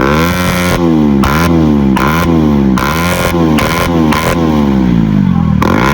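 Motorcycle engine revved hard over and over, each blip of the throttle sweeping up and falling back, with sharp pops and cracks from the exhaust as the revs drop.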